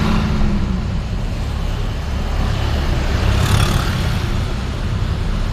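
Street traffic noise: a steady low engine and road rumble, with a vehicle passing and swelling briefly about three and a half seconds in.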